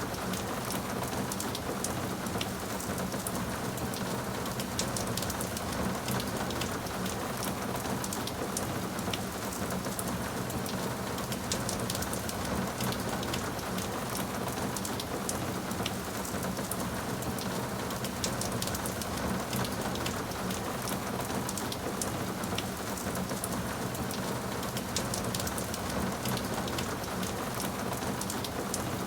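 Steady rainfall: a constant hiss of rain with many fine drop ticks scattered through it.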